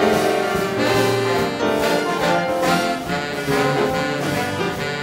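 A big band plays swing jazz, with trumpets, trombones and saxophones sounding held chords together over a steady beat.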